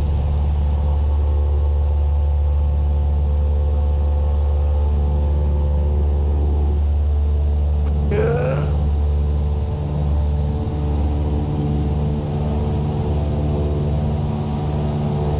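Cessna 172's single piston engine and propeller droning steadily at climb power in the cockpit.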